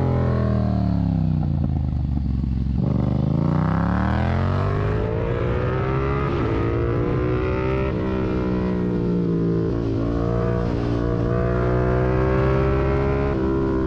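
Yamaha MT-07 parallel-twin engine through a Mivv aftermarket exhaust, heard from the rider's seat. The note drops as the bike slows for the first few seconds, climbs as it accelerates hard about three seconds in, then holds a fairly steady pitch with small changes while riding on.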